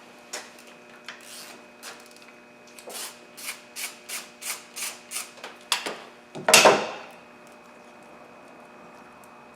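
Ratchet wrench loosening a bolt on the engine: a quick series of about a dozen short rasping strokes, roughly three a second, then one louder clunk about two-thirds of the way in.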